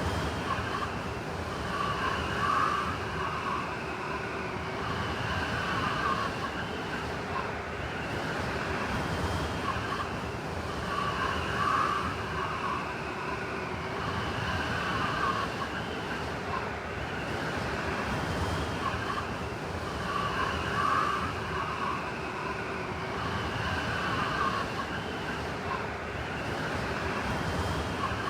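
Blizzard wind blowing steadily, swelling in gusts every few seconds, with a whistling tone that rises and fades.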